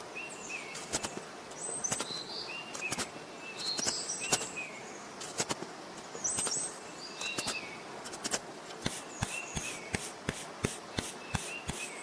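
Short bird chirps repeating about once a second, over scattered sharp clicks that settle into a steady run of about three taps a second in the last few seconds.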